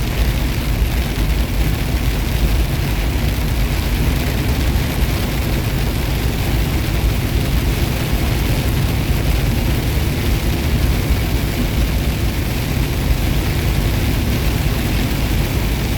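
Steady drone of a semi truck's engine and tyre noise heard from inside the cab while driving on the highway.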